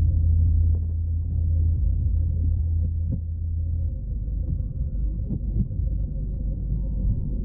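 Car engine idling with the car at a standstill, a low steady rumble heard from inside the cabin. A deep hum in it eases off about four seconds in.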